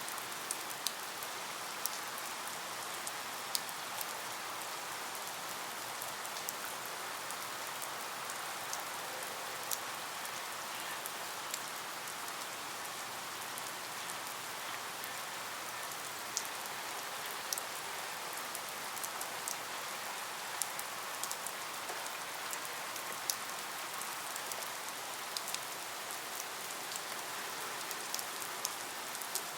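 Steady rain falling, an even hiss with many scattered sharp ticks of drops striking a surface.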